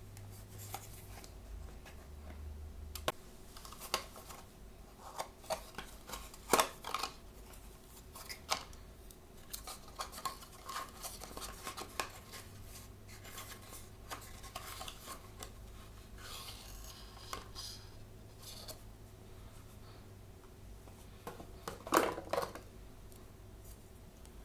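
Blind-bag and box packaging being handled and opened by hand: scattered small clicks and plastic or paper rustling, with the sharpest, loudest sounds about six seconds in and again near the end.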